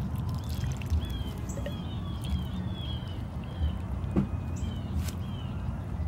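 A small bird chirping repeatedly: a string of short, falling notes, over a steady low rumble, with a couple of brief clicks about four and five seconds in.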